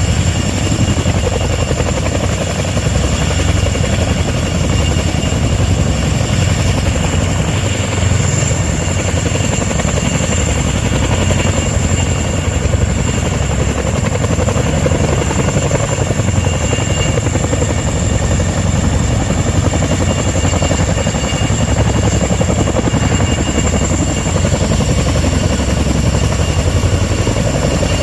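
Helicopter running close by, loud and steady: rapid rotor beating with a steady high turbine whine over it.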